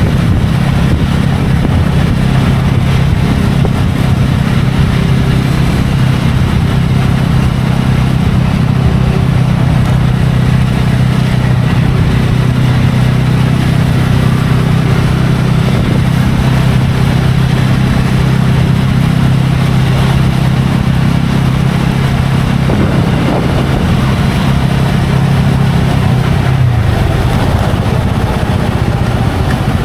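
TVS Ronin's single-cylinder engine running steadily under way, heard over a rush of wind and road noise; the engine note drops away near the end.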